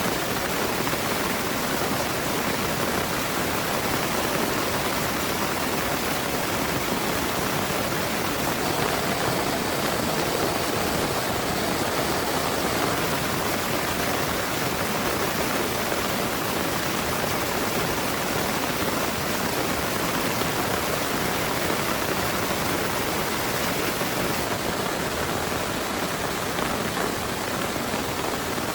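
Heavy rain pouring down steadily, a dense even hiss without separate drops or thunder.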